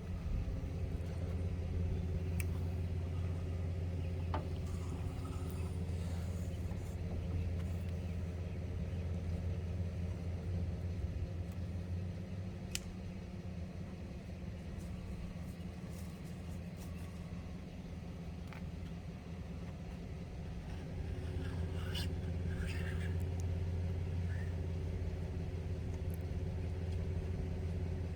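Steady low drone of an engine running, with a few light clicks and taps over it.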